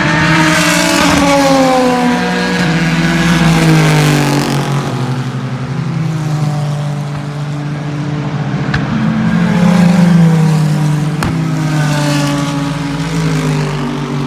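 Sports-prototype and GT race cars passing at speed, their engine notes falling in pitch as they go by. One wave of cars passes in the first few seconds and another, the loudest, about two-thirds of the way in, with a sharp click just after it.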